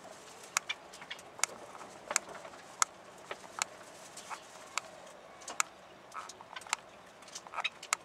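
Caged birds giving short, sharp chirps at irregular intervals, roughly two a second.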